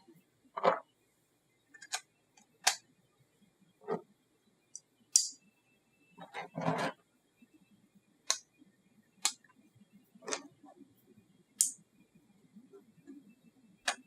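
Irregular sharp clicks and taps, about a dozen in all, spaced a second or so apart, with one longer noisy sound lasting about a second a little past halfway.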